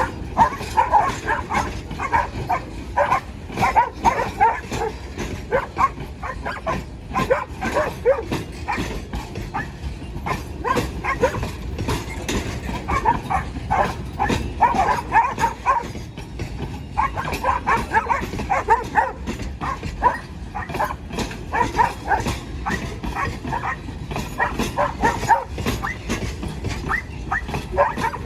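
Dogs barking and yelping over and over, many short calls in quick succession, above a low steady rumble.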